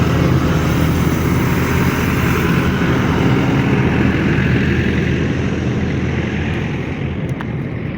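Jet airliner engines running close by, a steady loud rumble and hiss with a faint high whine, easing off slightly toward the end.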